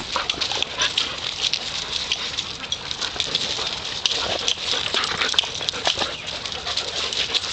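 A group of dogs moving about close by: many quick pattering and scuffling clicks, with a few short animal noises.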